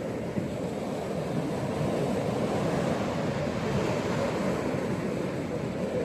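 Ocean surf washing onto a beach: a steady, low rushing noise that swells slightly about two seconds in.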